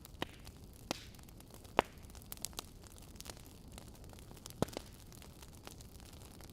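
Wood fire burning in a fireplace: a soft steady hiss with irregular sharp crackles and pops from the logs, the loudest pops about two seconds and four and a half seconds in.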